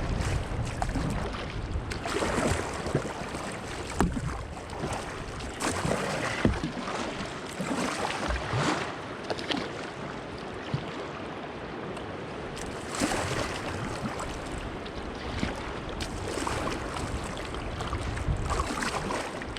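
Water rushing and splashing around a kayak running fast river water just below a rapid, swelling and easing every few seconds. Wind rumbles on the microphone at the start.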